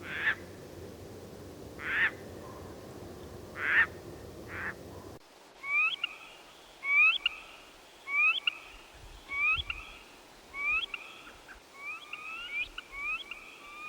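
Bird calls from two different recordings. First comes a loud call repeated about every two seconds over steady background noise. After an abrupt cut about five seconds in, short rising chirps follow one another quickly, about one a second and faster toward the end.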